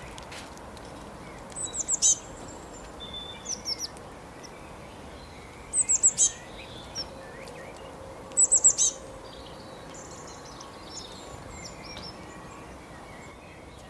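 A wild bird singing short phrases of a few rapid, high chirps, repeated every few seconds with quieter calls between, over a steady background hiss.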